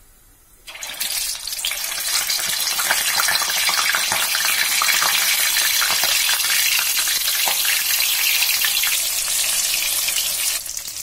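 Soya chaap sticks frying in hot mustard oil in a steel kadhai: a dense crackling sizzle that starts abruptly just under a second in as the pieces go into the oil, then holds steady.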